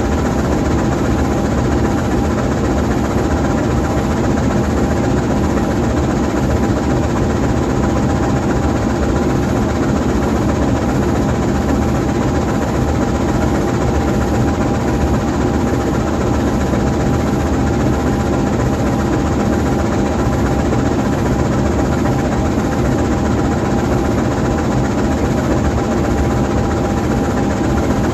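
GE U20C diesel-electric locomotive idling while parked, its V12 diesel engine giving a loud, steady low rumble with a thin, steady whine above it.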